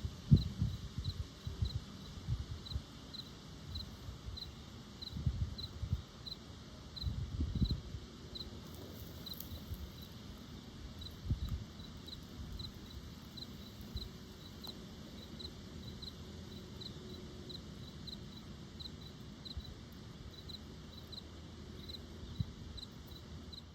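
An insect chirping steadily at one high pitch, about two chirps a second, over low bumps and rustling that are loudest in the first eight seconds.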